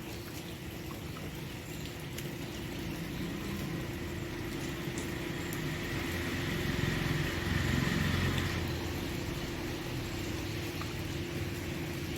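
Steady rain, with a vehicle passing that swells to its loudest about seven to eight seconds in and then fades. A steady low hum runs underneath.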